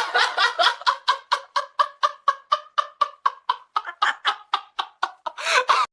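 A rapid, rhythmic cackling laugh, like clucking, at about five short pulses a second, ending in a louder burst near the end.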